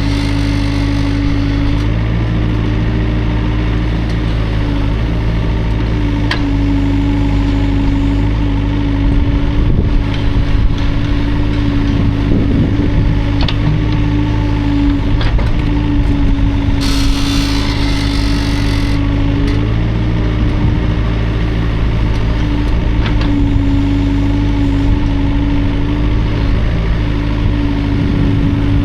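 Hydraulic excavator's diesel engine running steadily under working load, its steady hum dipping and rising a little as the hydraulics work. A few sharp knocks come through, and a brief hiss about two thirds of the way in.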